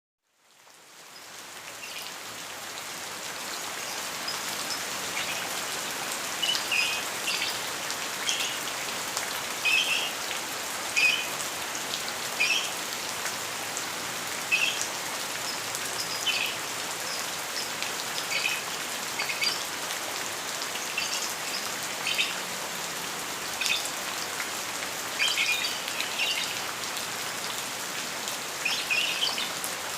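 Steady rain, fading in over the first few seconds, with a lovebird chirping in short runs of high, sharp chirps every second or two.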